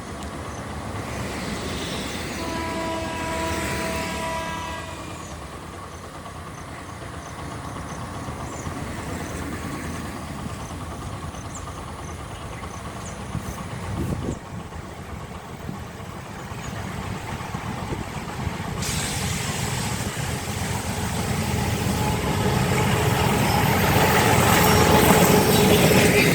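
A diesel train's horn sounds one chord held for about two seconds, a few seconds in. The rumble of the approaching train then grows steadily louder, loudest near the end.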